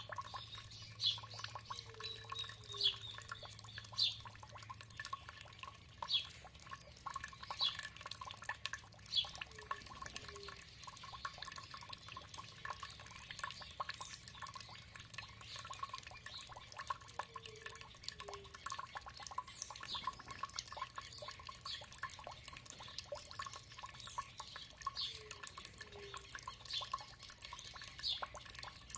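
Water trickling and dripping with a dense patter of small splashes, while birds call: short high chirps every second or two, and a soft low two-note call that comes back every seven or eight seconds.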